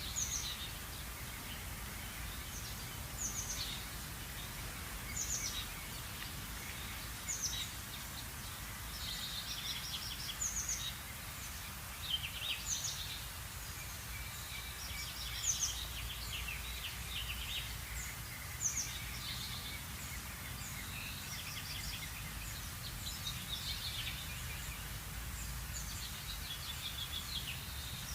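Birds calling: short, high calls and quick trills repeat every second or two over a steady low rumble of background noise.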